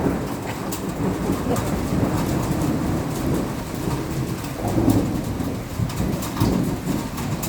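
Heavy rain pouring down with thunder rumbling, swelling into a louder roll about five seconds in and again shortly after.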